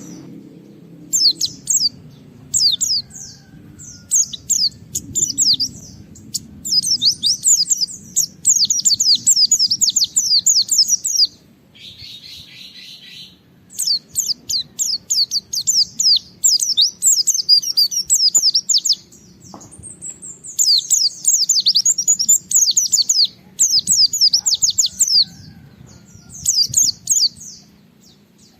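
White-eye (pleci) singing in rapid, high-pitched twittering bursts of a few seconds each, separated by short pauses. A brief hiss comes about halfway through, and a low steady background noise runs underneath.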